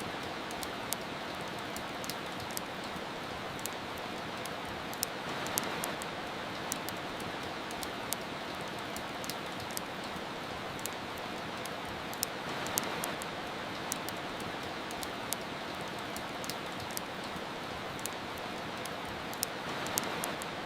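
Steady hiss of rain, with irregular sharp crackles and pops from a wood fire several times a second.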